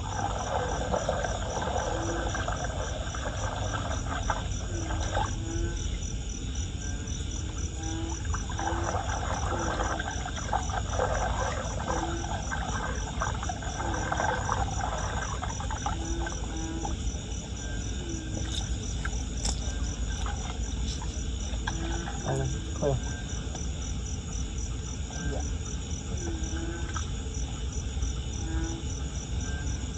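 Crickets trilling steadily, with frogs giving short calls every second or two, over a constant low rush.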